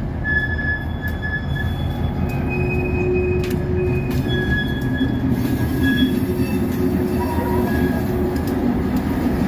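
A diesel locomotive and a string of hopper cars rolling slowly past, with a steady low rumble of engine and wheels. Thin, high-pitched wheel squeals come and go as the cars take the curve.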